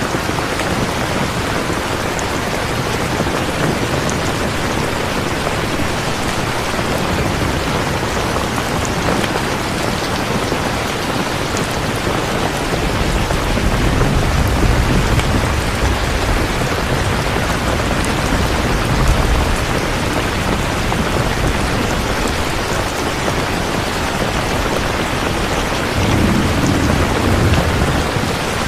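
Steady heavy rain falling, with low rumbles of distant thunder rolling in about halfway through and again near the end.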